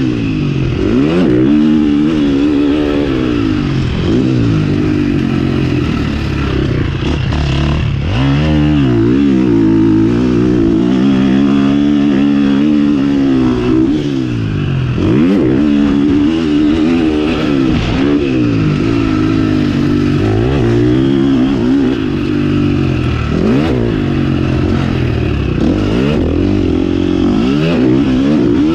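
A 2020 KTM 350 SX-F's 350 cc four-stroke single-cylinder engine, ridden hard: it revs up and drops back many times in quick succession as the throttle is opened and shut through the gears, with one longer held pull about a third of the way in.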